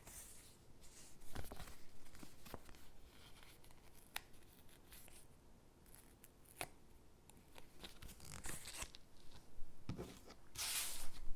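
Stickers being peeled from their backing sheet and pressed onto paper cutouts: small clicks and soft rustles of paper, with a longer, louder peeling rasp near the end.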